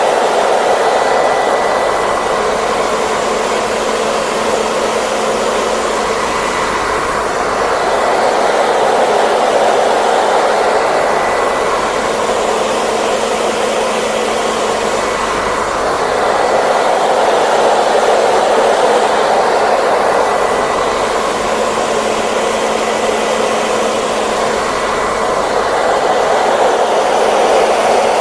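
Hair dryer running continuously with a steady blowing hiss and a faint motor whine, swelling and easing slightly every several seconds.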